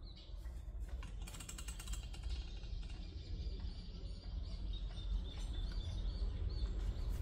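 Socket ratchet clicking rapidly for under a second, about a second in, over a low rumble that grows louder toward the end.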